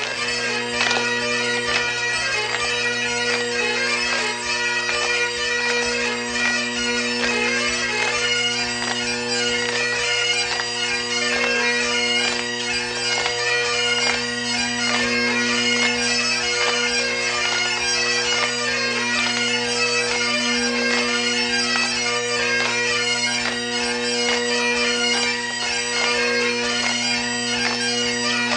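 Highland bagpipes playing a tune over their steady, unbroken drone.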